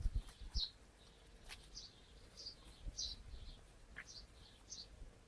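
Faint bird chirping: short high chirps repeated about twice a second, with a few low thumps about half a second in.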